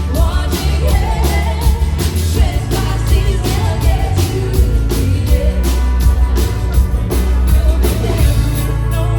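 Live rock band playing with a singer: loud, steady drums and bass under a sung melody.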